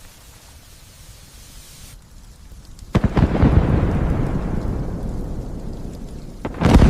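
Thunder over rain: a sudden crack about three seconds in, then a low rumble that fades over the next few seconds, and a second loud clap near the end.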